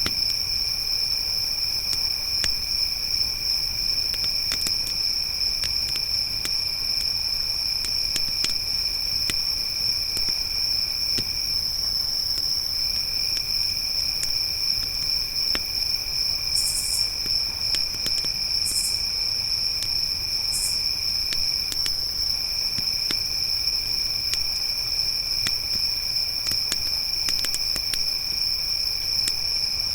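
Crickets trilling without a break: a loud high one and a lower one that pauses twice. Small crackles and pops of a wood campfire scattered throughout, and three short high buzzes in the middle.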